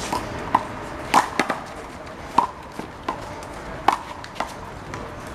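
Rubber handball being slapped by hand and smacking off the concrete wall and court during a one-wall handball rally: about ten sharp smacks at irregular spacing, some in quick pairs.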